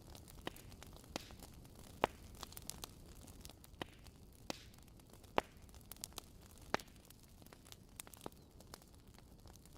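Wood fire crackling in a fireplace: irregular sharp pops and snaps over a low steady rumble, with the loudest pops about two, five and seven seconds in.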